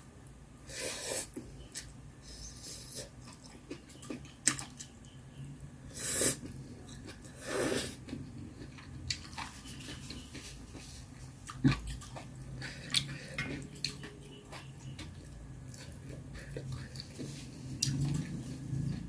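Eating sounds: several short slurps or sucking breaths, with chewing and many small clicks of chopsticks and bowl in between.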